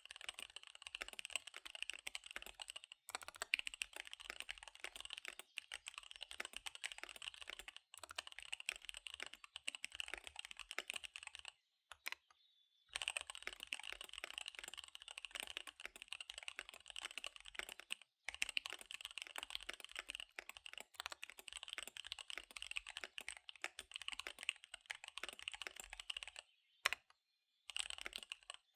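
Fast typing on a KBD75 V3 mechanical keyboard with SP-Star Dark Magic Girl tactile switches and DSA keycaps: a dense, rapid run of key clicks. It pauses briefly about twelve seconds in and again near the end.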